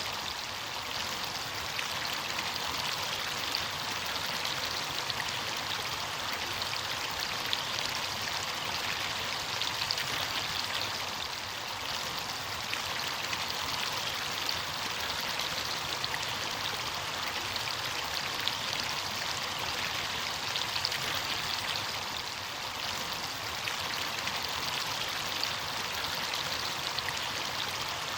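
Stream water rushing and splashing over rocks in a steady, unbroken flow, with fine bubbling splashes.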